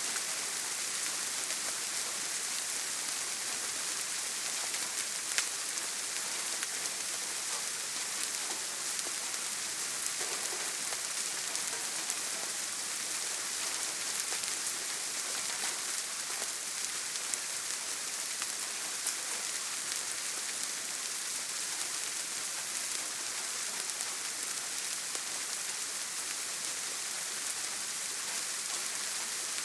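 Steady heavy rain falling on a tin roof, an even hiss with scattered sharper drop ticks; no thunder.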